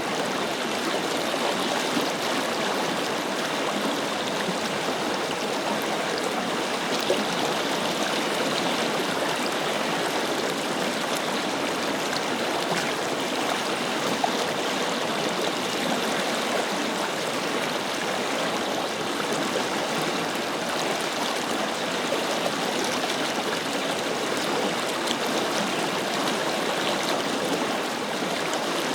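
Forest river running steadily over rocks, a continuous rushing and babbling with small splashes.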